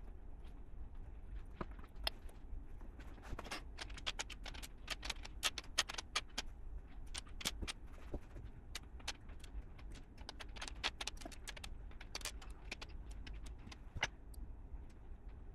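Plastic LEGO pieces clicking and rattling as they are handled during a build: a dense, irregular run of small sharp clicks, thickest in the middle.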